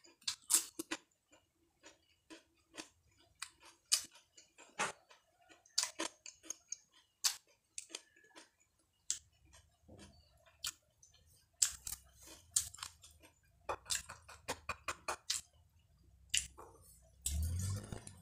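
Close-miked chewing of young jengkol beans: a run of sharp, irregular crunching clicks from the mouth, mixed with fingers handling the jengkol pods. A louder low rumble comes in near the end.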